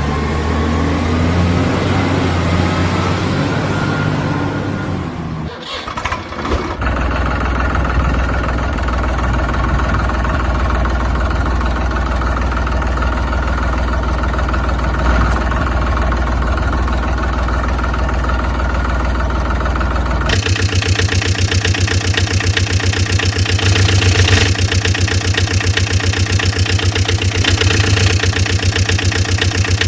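A vehicle engine running steadily. It dips briefly about six seconds in, and about twenty seconds in it changes to a louder, rhythmic chugging idle.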